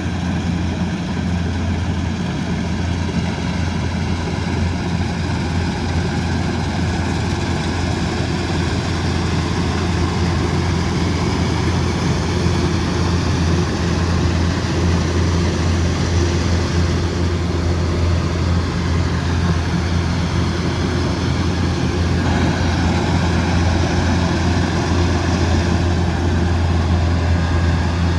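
Combine harvester engine running steadily under load with a deep, even hum, its tone shifting slightly about three-quarters of the way through.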